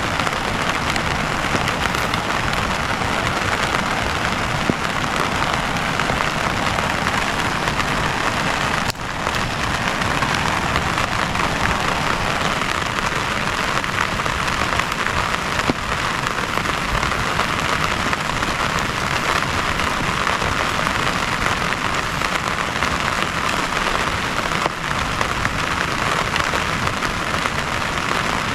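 Heavy rain falling steadily in a dense, even hiss, with one brief dip about nine seconds in.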